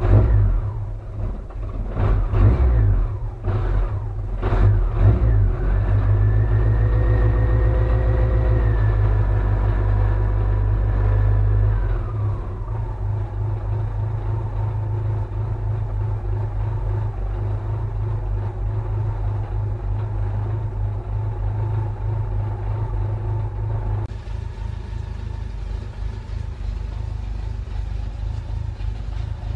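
Dacia 1300's four-cylinder engine revved in several short blips over the first five seconds, then held at a steady fast idle. About twelve seconds in the revs drop and it settles to a lower, steady idle.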